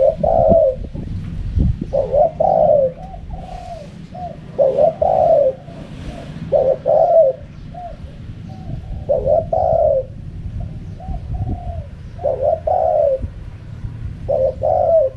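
Spotted dove cooing: a phrase of a few rolling coos repeated about every two seconds, over a low rumble. It is the wild bird's calling pattern that Thai dove keepers call the 'wild call'.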